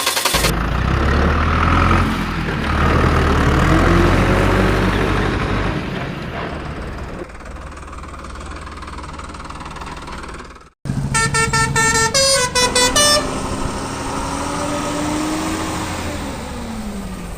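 A motor vehicle engine running loudly and then fading. After a sudden cut, a horn toots several times in quick succession, then an engine note rises slightly and falls away near the end.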